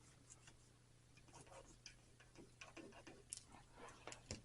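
Faint, scattered taps and short scratches of a pencil marking through a paper template onto drywall, over a low steady hum of room tone.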